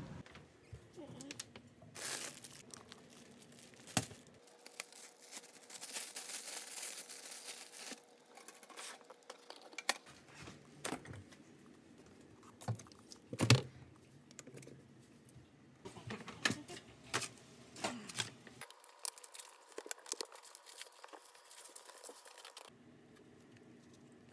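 Breakfast food being handled in a kitchen: plastic packaging and containers crinkling and rustling, with scattered knocks and clicks, the loudest knock about halfway through. A faint steady tone comes and goes in two stretches.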